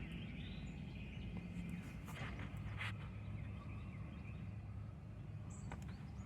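Quiet outdoor background: a steady low hum with faint bird chirps and a couple of soft clicks.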